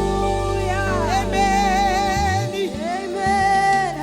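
Gospel worship band playing a slow song, with sustained keyboard and bass chords and a singer holding long notes with vibrato.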